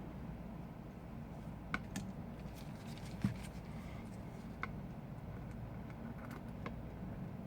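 Scattered light clicks and taps of small tools and phone parts being handled during reassembly of an iPhone 5, with one duller knock about three seconds in, over a steady low hum.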